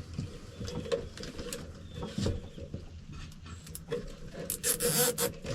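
Hands handling electrical cords, with scattered small clicks and rustles, then a short rasping zip near the end as a plastic zip tie is pulled tight.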